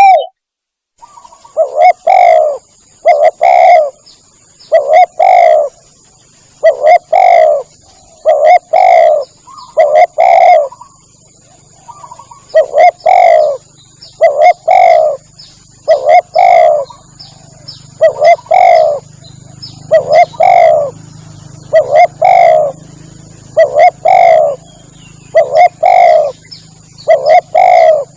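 Spotted dove (tekukur) cooing: loud, low double-note coo phrases repeated about every two seconds, the call used to lure the birds in. A faint steady high-pitched whine runs beneath it.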